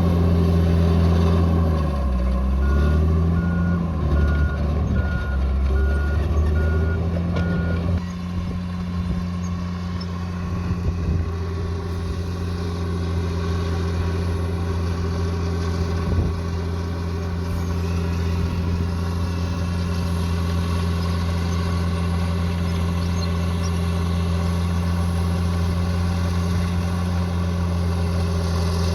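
Bulldozer's diesel engine running steadily under load, its pitch dipping and recovering a couple of seconds in while a reversing alarm beeps evenly for about five seconds.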